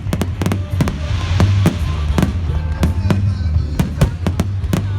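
Rapid bangs of fireworks bursting, several a second, over music from the show's sound system with a strong steady bass.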